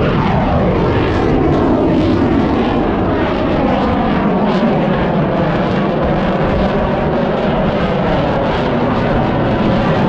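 Airplane engine passing overhead at an airshow: a loud, steady rumble whose pitch falls sharply in the first two seconds as the aircraft goes by, then keeps sinking slowly as it draws away.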